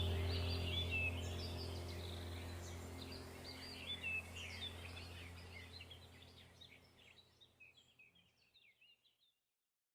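Small birds chirping and singing in many quick notes over a low steady hum. Both fade out gradually to silence about seven seconds in.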